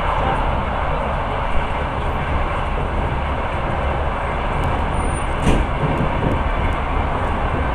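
Passenger train running along the track, a steady rumble and rush of wheels and air heard from inside the carriage at the window, with a sharp knock about five and a half seconds in.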